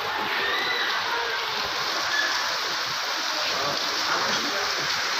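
Heavy downpour of rain falling steadily, a continuous dense hiss of water.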